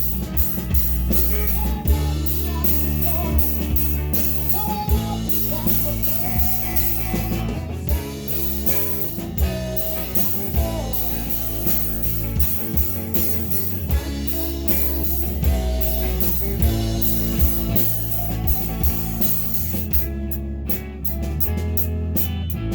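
Live rock band playing a song: electric guitar and bass over a drum kit, with a wavering melody line on top. The drum hits thin out about twenty seconds in while the guitar carries on.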